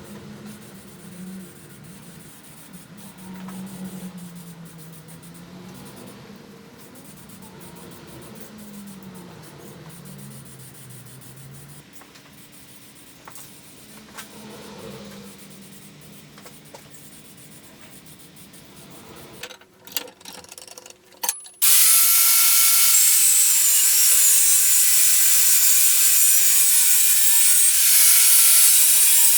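Quiet workshop handling with a few faint knocks, then about twenty seconds in an electric power tool starts suddenly and runs loudly and steadily, with a high hiss and a few steady whining tones.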